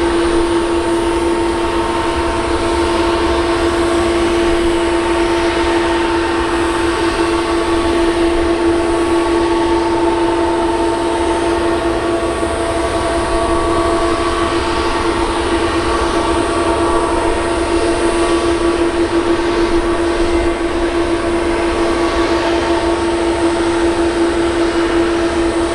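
Boeing 777-200's jet engines running steadily, a loud drone carrying an even, unchanging whine.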